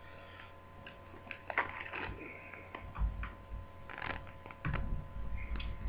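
Light clicks, taps and rustles of a laptop and small parts being handled on a bench, with a few low bumps in the second half over a faint steady electrical hum.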